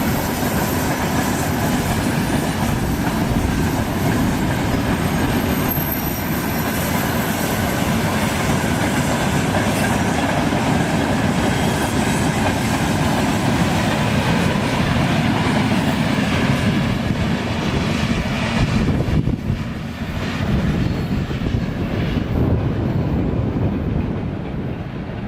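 Freight train wagons rolling past at speed, a steady heavy rumble with the wheels clicking over rail joints. The upper part of the noise thins out near the end.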